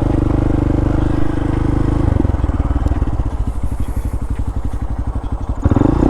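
Honda Grom's small single-cylinder four-stroke engine running steadily, then dropping to an idle putter of evenly spaced firing pulses about two seconds in, and revving up again near the end.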